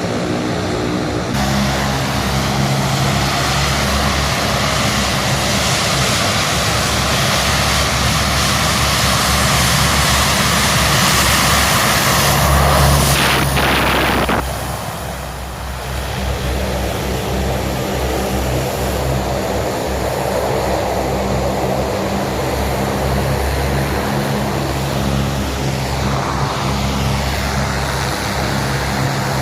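Propeller-driven aircraft engines droning, growing louder toward a peak about halfway through, then dropping in pitch and level as the plane passes. A steady drone carries on after.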